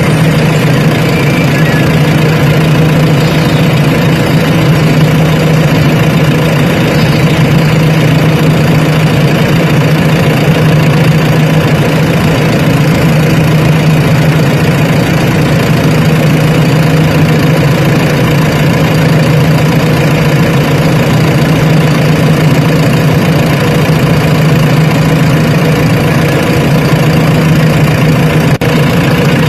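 Heavy diesel engine running steadily and loud, close to the microphone, with an even low hum.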